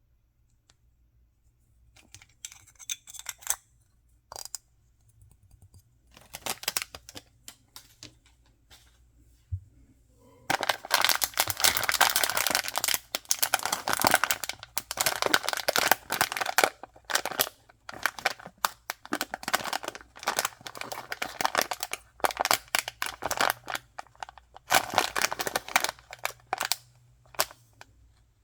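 Packaging being handled and opened by hand: a few scattered clicks and rustles, then from about ten seconds in, steady crinkling and tearing of wrapping with short pauses.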